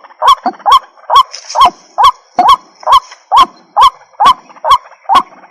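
White-breasted waterhen (ruak-ruak) calling, a steady run of short, rising, honking notes about two a second, sometimes in quick pairs.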